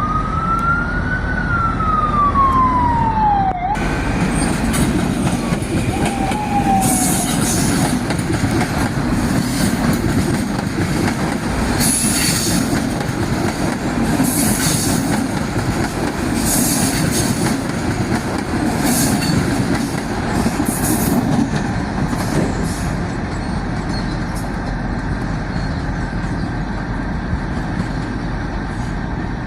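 A Metro-North train passing: a steady rumble of wheels on rail, with repeated hissing, rattling surges through the middle stretch. At the start a single high tone rises slightly, then slides down and stops a few seconds in.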